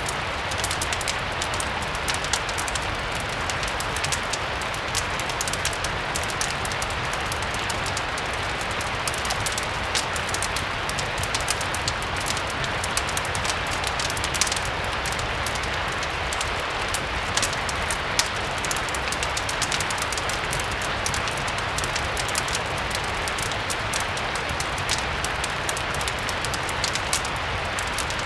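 Steady rain hiss mixed with the frequent small pops and crackles of a wood fire, over a low rumble.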